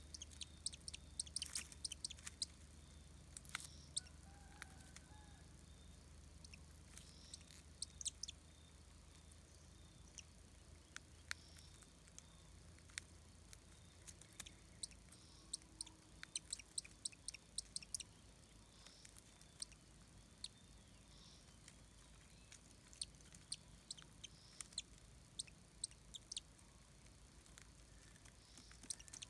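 Faint, scattered sharp clicks and snaps from a shikra tearing at and eating a rat in its nest, in irregular clusters, with a few faint bird chirps in the background.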